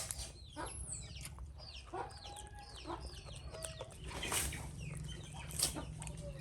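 Rapid high-pitched peeping calls, each a short note falling in pitch, several overlapping, over a steady low hum.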